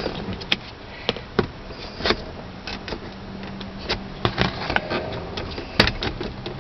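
Irregular sharp plastic clicks and creaks as a plastic pry tool works the Lexus ES300's center console trim panel up off its retaining tabs.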